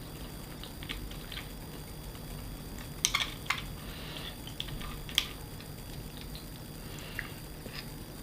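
Eating sounds: soft chewing with a few sharp clicks, a pair about three seconds in and another near five seconds.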